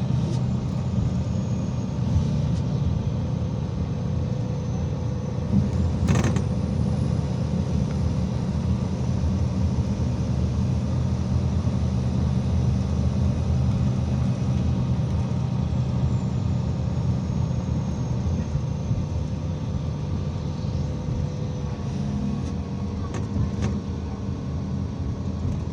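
IVECO Crossway 13M PRO city bus under way: a steady low rumble of the engine and running gear with a faint whine, and one sharp click about six seconds in.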